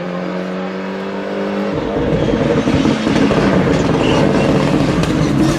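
Ford Escort Cosworth rally car's turbocharged four-cylinder engine at high revs. It holds a steady note for under two seconds, then turns louder and rougher as the car draws near and stays loud.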